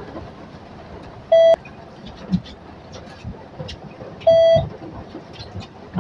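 Two loud electronic beeps about three seconds apart, each a short steady tone, over a steady background of vehicle noise with faint ticks.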